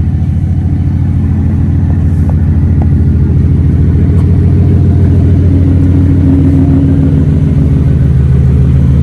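Turbocharged 5.0-litre Coyote V8 of a Ford F-150 idling with a steady, pulsing exhaust note, a little louder from about two seconds in; the owners judge it to be running rich.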